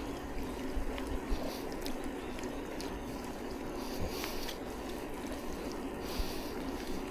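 Bicycle tyres running on a wet road while riding in the rain, a steady watery hiss with small clicks and a few brief louder swishes of spray.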